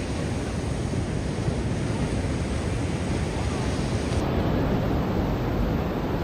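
Ocean surf washing onto a beach, a steady rush of waves heaviest in the low end.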